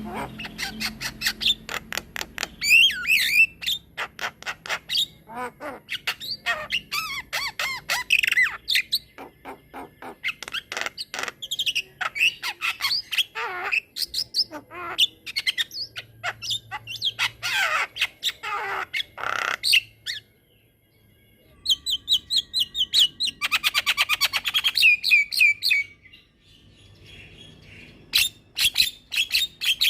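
Javan myna singing a long, unbroken run of rapid clicks, harsh chatter and varied whistles. It pauses briefly about two-thirds of the way through, then goes into a fast trill.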